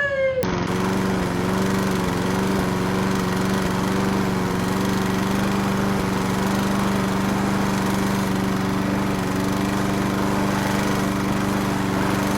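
A motor running steadily with a constant, even hum, starting suddenly about half a second in.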